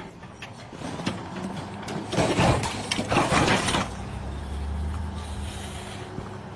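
A heavy vehicle's engine running, with a loud stretch of noisy rattling about two seconds in, settling to a steady low hum afterwards.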